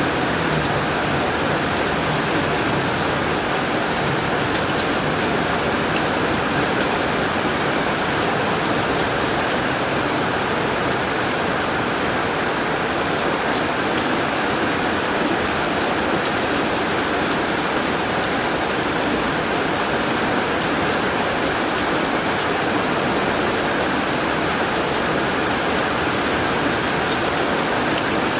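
Heavy rain falling steadily on a tin roof, a dense even patter with sharp drop ticks scattered through it.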